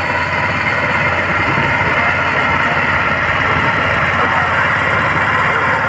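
An engine running steadily and evenly, with no change in speed.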